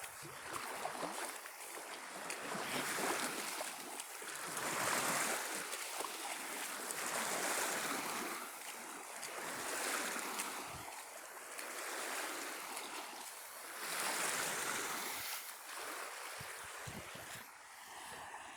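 Sea of Azov surf: small waves breaking and washing up the shore, swelling and falling back about every two to three seconds.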